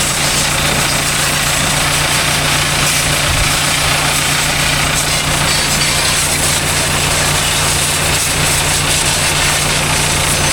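A motor running steadily with an even low hum, under a continuous hiss.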